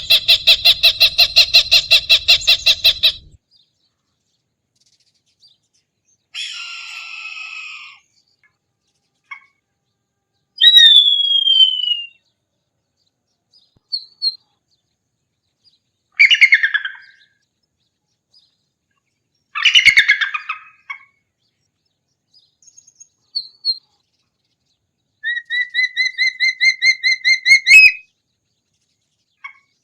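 A string of separate hawk calls with silent gaps between them. A fast chatter stops about three seconds in, followed by harsh screeches, a single descending scream about eleven seconds in, and a quickening run of sharp, rising notes near the end.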